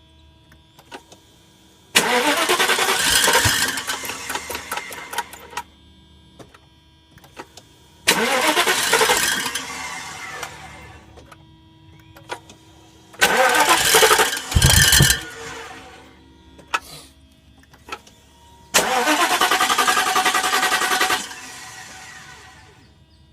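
A car engine is cranked four times in a row. Each attempt lasts two to three and a half seconds, starts suddenly, rises in pitch at first and then dies away or cuts off: the car is not starting and running as it should.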